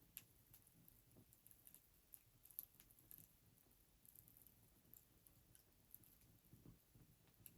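Wood fire crackling softly: faint, irregular pops and snaps, a few a second, over a low hiss.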